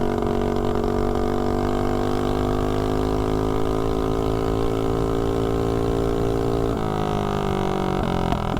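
Tillotson 212 single-cylinder four-stroke engine of a mini bike, running on nitro fuel, held at a steady high speed under way, then dropping in pitch about two-thirds of the way through. The engine is running lean on its 140 main jet, which the rider says needs drilling out larger for the transition into high speed.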